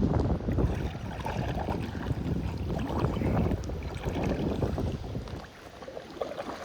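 Gusty wind rumbling on the microphone, with water splashing and lapping around the kayak; the wind eases briefly near the end.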